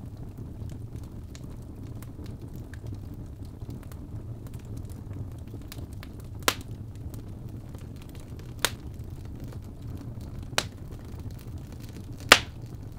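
Birch logs burning in a fireplace: a steady low rumble of flame with faint ticking crackles and four sharp pops, the loudest near the end.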